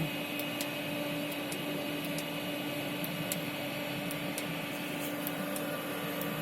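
Steady electric hum, like a small motor running, with faint high ticks now and then.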